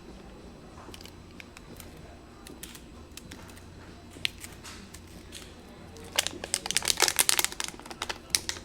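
Thin plastic water bottle crackling in the hand, a few faint clicks at first and then a dense run of loud sharp crackles about six seconds in, as the bottle is handled and drunk from.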